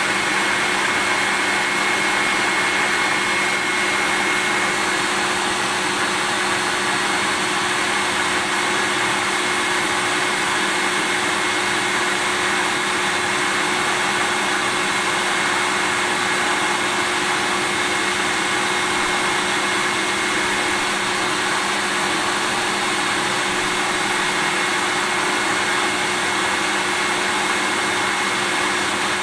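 A vacuum cleaner running continuously at constant speed. Its steady rushing airflow noise carries a low motor hum and a higher whine, with no change in speed or loudness.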